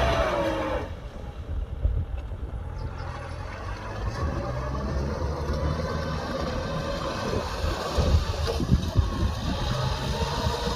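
Kubota M6040SU tractor's diesel engine running with a steady low rumble; its note drops in pitch in the first second.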